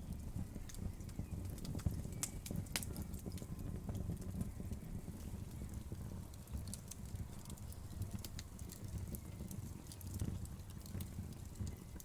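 Wood fire crackling: a steady low rumble of burning with irregular sharp pops and snaps, a few louder ones about two seconds in.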